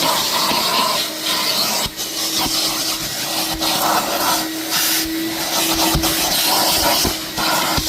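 Vacuum cleaner running with a steady hum and hiss while its nozzle is scraped and rubbed over the car's interior surfaces in irregular strokes, with a few light knocks.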